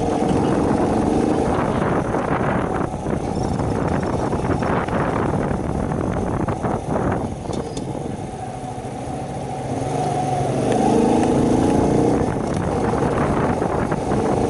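Small single-cylinder 50cc Shineray motorcycle engine running on the move, under heavy wind noise on the microphone. The engine note fades around eight seconds in and picks up again about ten seconds in as the bike accelerates.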